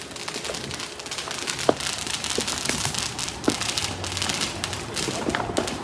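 A lit ground firework crackling steadily, a dense run of fast small pops and fizz.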